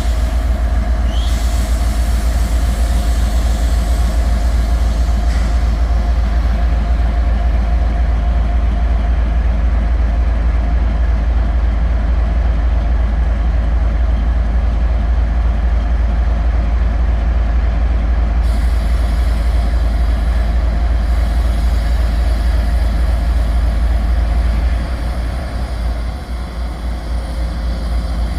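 GE ES44AC diesel locomotive idling with a steady low rumble and a steady hum, with a brief rising whistle about a second in and a hiss in the first few seconds and again in the last third.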